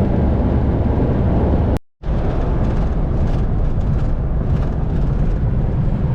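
Car cruising at highway speed, a steady rumble of engine and road noise. The sound cuts out for a moment about two seconds in, then carries on unchanged.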